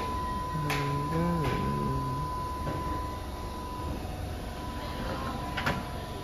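Keihan 13000-series commuter train rolling slowly to a stop at an underground platform: a low steady rumble with a steady high tone over it. There are a few sharp clicks and a brief voice about a second in.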